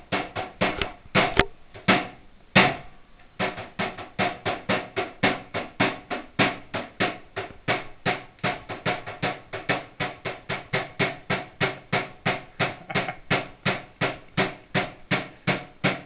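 A computer monitor being struck over and over by hand as a home-style repair. The blows come in a steady, rapid rhythm of about three a second, each with a short ring, after a few heavier, uneven hits at the start.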